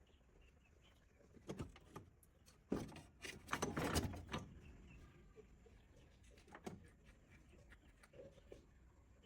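A few scattered knocks, then a brief burst of clattering about three seconds in, with a couple of light clicks later.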